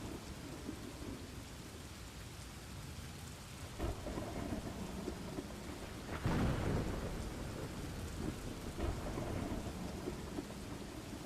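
Steady rain with rolling thunder: low rumbles swell about four seconds in, more strongly a little past the middle, and again faintly near the end.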